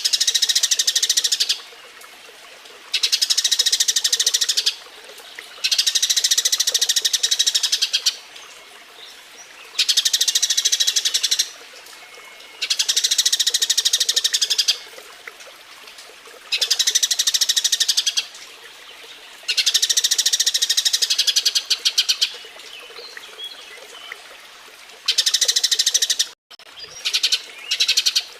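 Eurasian tree sparrows chattering in loud bursts of rapid, high chirps, each burst two to three seconds long with short pauses between, about seven times over. These are the excited calls of sparrows courting and mating.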